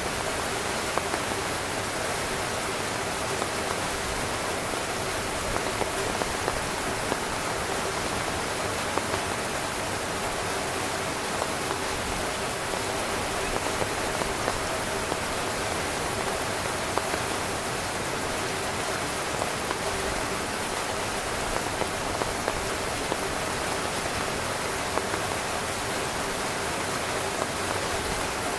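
Heavy rain falling on a camping tent: a steady hiss of rain with many individual drops striking the tent fabric throughout.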